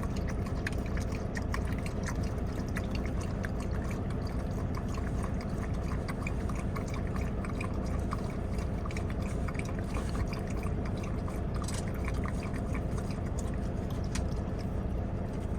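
A dog lapping water from its bowl: a quick, irregular run of small wet laps and clicks, over a steady low hum.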